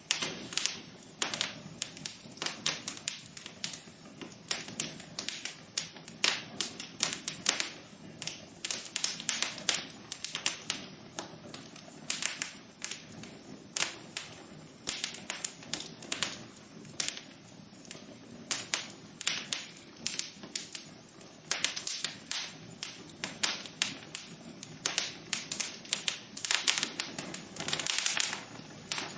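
Wood fire burning in a fireplace, crackling with irregular sharp pops and snaps several times a second over a soft steady hiss.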